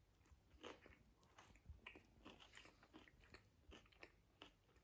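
Faint chewing of a mouthful of crispy chicken burger: soft, irregular crunches and small mouth clicks.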